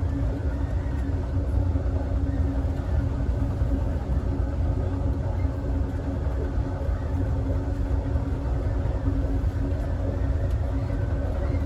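Steady low rumble of the Southwest Chief's rear passenger car rolling along the track, with a constant hum over it, heard from inside the car.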